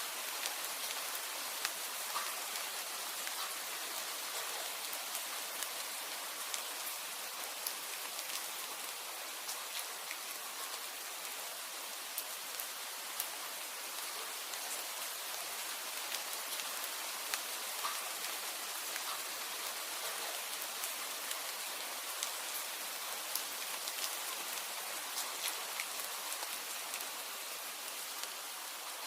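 Steady rain falling, a constant even hiss with scattered sharp taps of individual drops.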